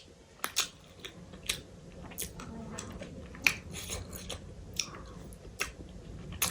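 Close-miked chewing, with about a dozen irregular wet mouth clicks and smacks over a faint low hum.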